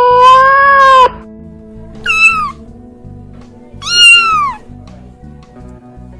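Cat meowing: a long meow that stops about a second in, then two shorter, higher meows, each falling in pitch at the end.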